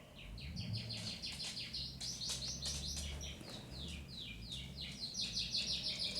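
A bird chirping in a rapid, unbroken run of short falling notes, several a second, over a faint low rumble.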